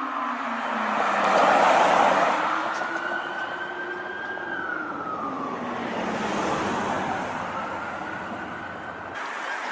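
American police siren wailing in a slow rise and fall, each glide taking a few seconds, over road and traffic noise. It is loudest between about one and two seconds in. Shortly before the end the sound cuts abruptly to another siren recording.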